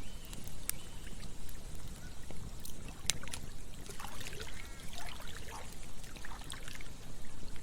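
Campfire crackling with sharp pops over the steady rush of a stream. A few short bird calls come in the middle.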